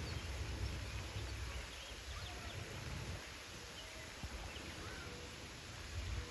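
Outdoor nature ambience: faint, scattered short bird chirps over a low rumble of wind on the microphone.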